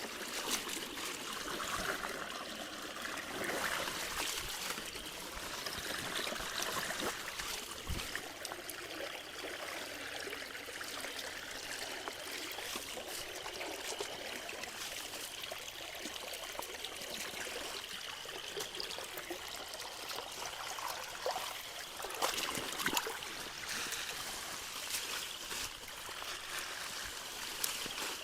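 Rain-swollen creek water running and trickling steadily, with a few brief knocks scattered through it.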